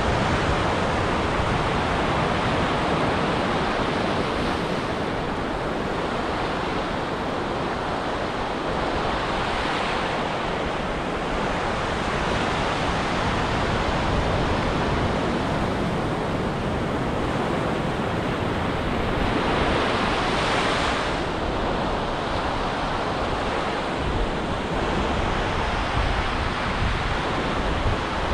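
Ocean surf breaking and washing up a beach, a continuous rush that swells louder about twenty seconds in.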